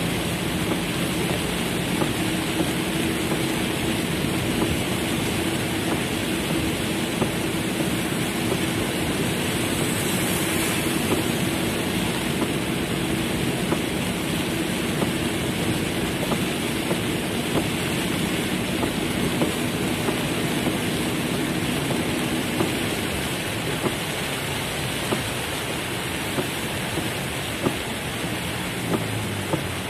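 Heavy rain drumming on a car's roof and windows, heard from inside the cabin as a dense steady hiss with scattered sharper drop hits. A low steady hum runs under it and fades out about two-thirds of the way through.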